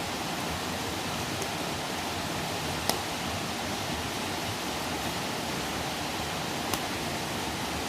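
Wood campfire burning with a steady rushing hiss, and two sharp crackles, one about three seconds in and another near the end.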